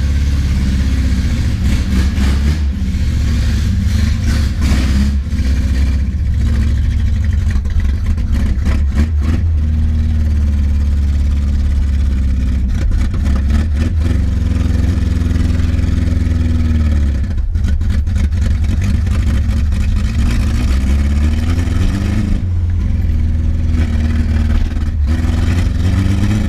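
Carbureted Subaru engine running, its revs rising and falling in slow sweeps several times. The owner says the carburetor still has a major flooding issue.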